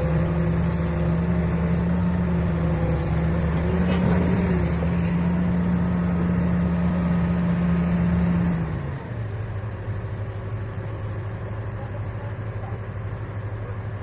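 Heavy diesel engine running at steady high revs, then dropping to lower revs about nine seconds in.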